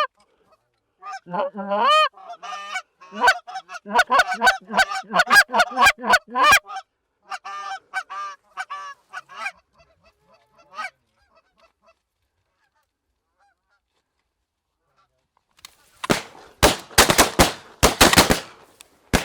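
Canada geese honking in a rapid, overlapping chorus as a flock works overhead, fading out after about ten seconds. After a few quiet seconds comes a quick volley of shotgun shots from several hunters firing together, with one more shot near the end.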